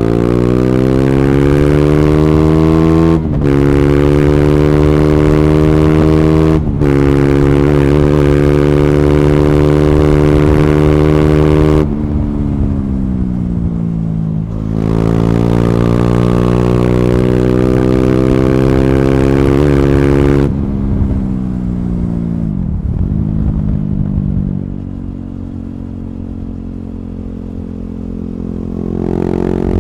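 KTM Duke 390 single-cylinder engine with an Akrapovic slip-on and decat pipe, ridden hard. It accelerates through the gears with two short breaks at the upshifts, then rolls off with the exhaust note falling. It pulls again and then slows with quick downshift blips until it settles at a low, steady idle.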